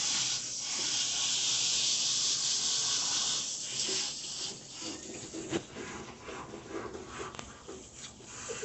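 Water spraying steadily into a bathtub, likely rinsing soap off a dog. After about four and a half seconds the spray stops, and quieter splashing and rubbing follow.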